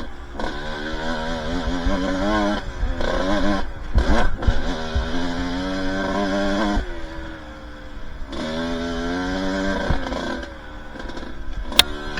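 Two-stroke dirt bike engine revving up and down as the throttle is opened and closed, dropping off briefly several times, over a low rumble of wind on the microphone. A single sharp click near the end.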